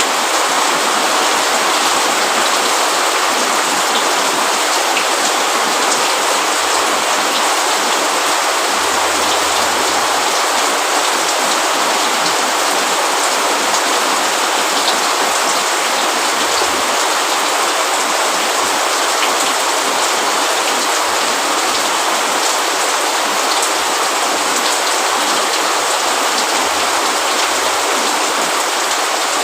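Steady rain with dense drops pattering on a roof and leaves, an even hiss with scattered individual drop ticks.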